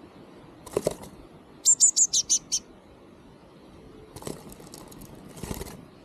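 A small bird gives a quick run of six high-pitched notes about two seconds in, the loudest sound here. Short bursts of wing fluttering come before it and twice more near the end.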